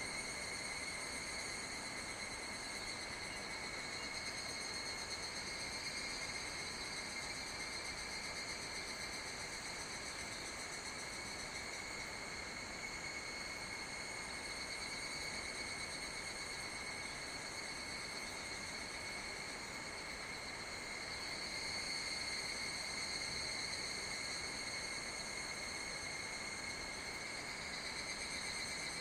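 A steady chorus of summer insects, a continuous high, shrill chirring with no breaks.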